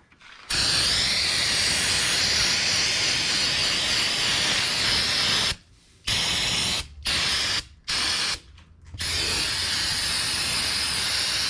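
Aerosol cleaner spraying in a long hiss of about five seconds, then three short bursts and another long spray, washing spilled engine oil off the parts.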